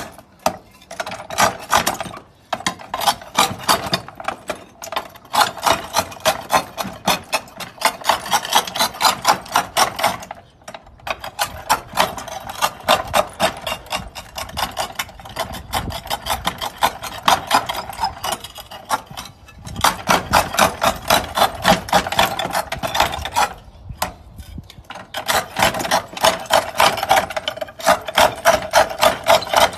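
Hand-operated tile cropper nibbling at a roof tile: a rapid run of sharp crunching snaps, several a second, in bursts broken by short pauses.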